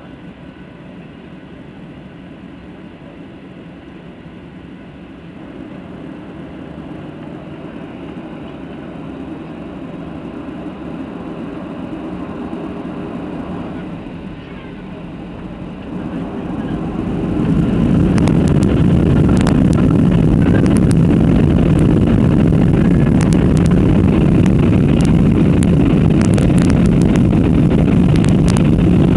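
Aircraft engines running up to takeoff power: a steady rumble that slowly grows louder, then surges about two-thirds of the way in to a loud, steady roar with scattered rattles and clicks as the plane takes off.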